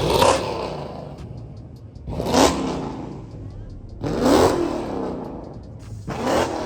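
A car engine revved hard four times, about two seconds apart, each rev climbing in pitch and then falling away.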